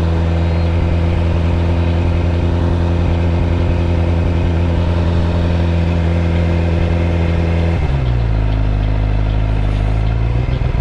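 Suzuki GSX-R600 inline-four engine running at a steady speed, heard from the rider's position with wind noise, then the engine note drops abruptly about eight seconds in and holds steady at the new pitch.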